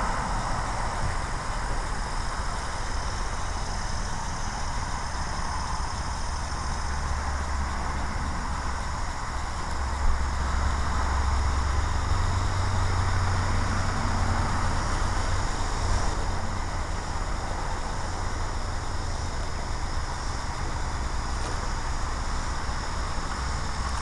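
Pickup truck engine running steadily. About ten seconds in, a sharp click comes and the engine note grows louder and slightly higher for several seconds, then settles back.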